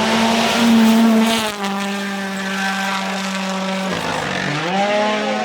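Rally car engine at full throttle, holding a steady high pitch, then dropping about four seconds in and climbing again.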